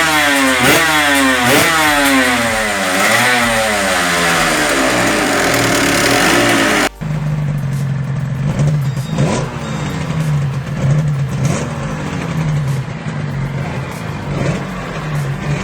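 A motorcycle engine revved in quick repeated blips, its pitch rising and falling about once a second. About seven seconds in, the sound cuts abruptly to another motorcycle engine running at a low, uneven idle.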